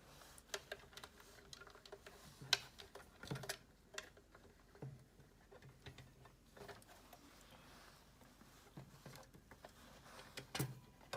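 Scattered light clicks and knocks of the halogen convection oven's lid parts being handled and fitted back together, a few sharper taps about two and a half, three and a half and ten and a half seconds in.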